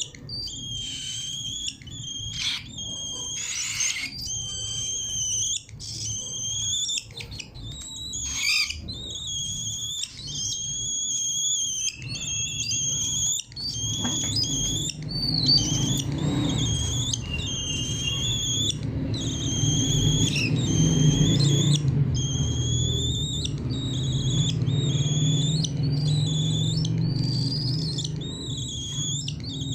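Cockatiels calling over and over with short, high whistling calls. A low, steady rumble joins in a little before halfway.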